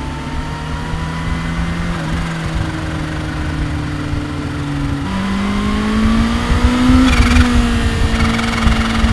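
Kawasaki Ninja H2's supercharged inline-four engine running at a steady speed, then about five seconds in its note steps up and climbs, getting louder as the bike accelerates.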